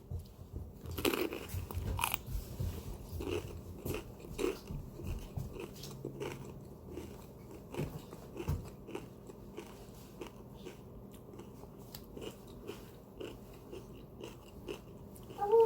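Biting into and chewing a crunchy jalapeño popper coated in crushed Doritos Dinamita: a couple of loud crunches about a second and two seconds in, then a run of smaller, irregular crunchy chewing sounds.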